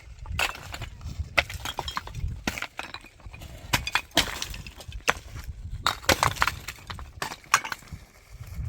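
Irregular sharp knocks and clinks, a dozen or so of them, like hard objects or debris being struck or handled, over a steady low rumble.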